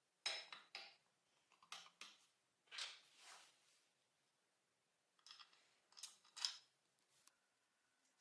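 Metal parts and tools being handled: a series of short clicks, clinks and scrapes in small groups, some with a faint metallic ring.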